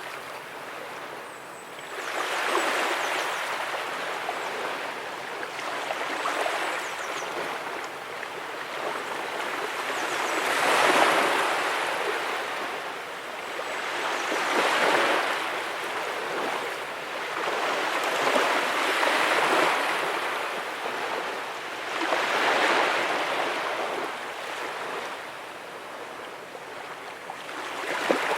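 Small ocean waves breaking and washing up on the beach, each surge of surf swelling and fading every few seconds.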